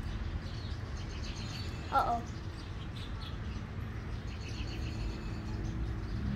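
Birds chirping faintly, with one louder short call falling in pitch about two seconds in, over a steady low background rumble.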